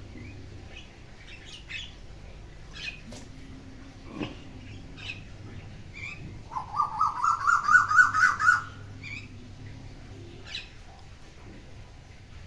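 A bird calling: scattered short chirps, then, about halfway through, a loud rapid run of about a dozen notes climbing in pitch over two seconds.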